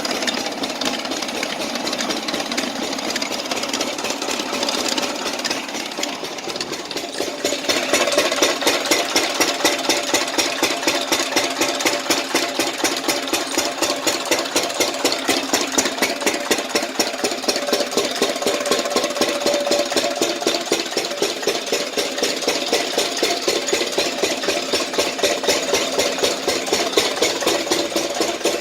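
Engine driving a borewell water pump, running steadily with a fast, even beat. The sound grows louder and the beat sharper about 8 seconds in.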